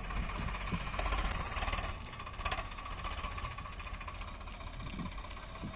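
Swaraj 855 tractor's diesel engine running steadily with a low, pulsing beat.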